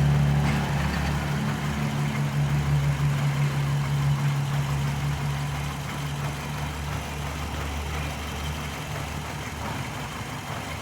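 2005 Hyundai Matrix's engine idling steadily, easing a little quieter over the first several seconds. The engine has a cylinder-2 misfire (code P0302) and runs unevenly, with an injector found closing too late.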